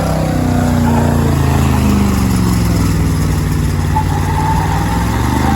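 Stock gas pickup truck's engine running hard under load while pulling a weight-transfer sled on blacktop, its pitch sagging and picking up again as it works.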